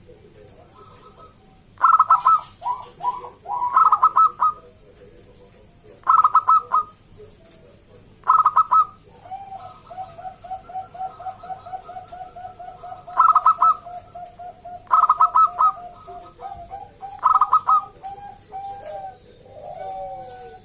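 Zebra doves (perkutut) cooing. Loud, short bursts of rapid staccato coos recur every couple of seconds, and a softer, even run of quick notes goes on underneath through the middle.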